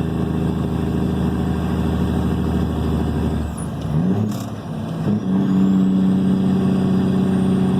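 Cat 3406E diesel in a Kenworth W900 running through 8-inch straight pipes, pulling steadily. About three and a half seconds in, the engine note drops away briefly and shifts in pitch, then it comes back louder and holds steady.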